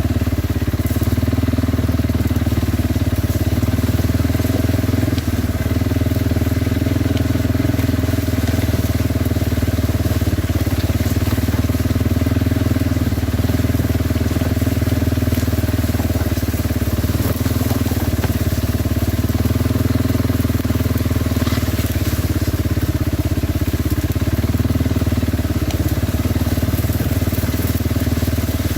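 Kawasaki Brute Force 300 ATV's single-cylinder engine running at a steady speed while riding, with rough tyre noise over the ground.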